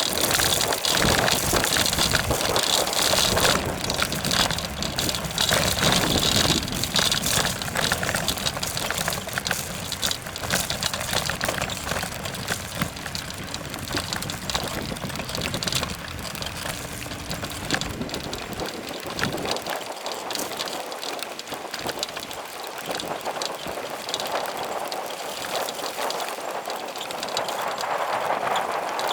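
Sped-up noise of a bicycle ride: a steady rushing sound with many small rattles and clicks from the bike moving over the trail.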